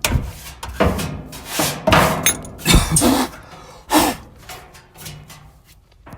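Irregular knocks, bumps and scrapes of hands and tools working on the sheet-metal parts of a dismantled clothes dryer. They come several to the second and are loudest in the first four seconds, then fainter.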